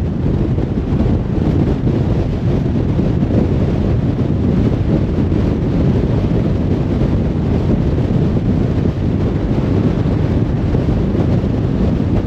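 Car cruising on a motorway: a steady, even rumble of tyre and wind noise, deepest in the low end.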